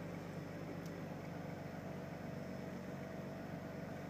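A 2001 Ford Taurus's 3.0-litre overhead-valve V6 idling steadily as it warms up after a cold start in freezing weather.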